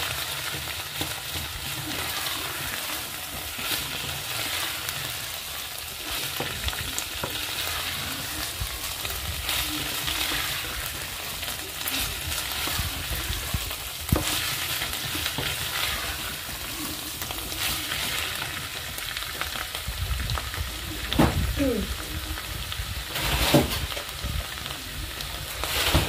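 Diced vegetables sizzling in a stainless steel pot, stirred and scraped with a wooden spoon. The spoon knocks against the pot about halfway through, and there are a few louder scrapes near the end.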